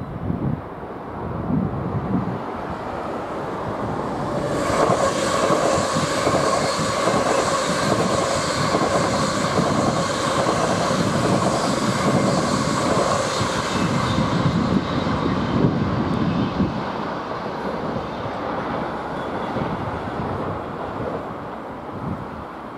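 A passing vehicle: a rumble with a steady, pulsing whine that swells about four seconds in and fades after about fourteen seconds.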